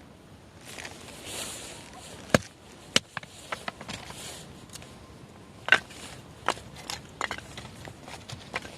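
Firewood being handled and split: a few sharp wooden knocks at uneven intervals, with smaller clacks between and a brief rustle about a second in.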